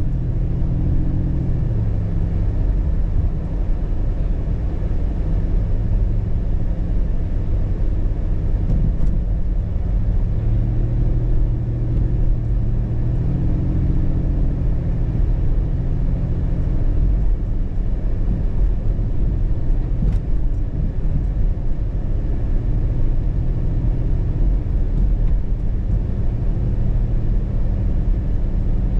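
Car driving: a steady low engine and road rumble, the engine tone shifting up and down in pitch a few times.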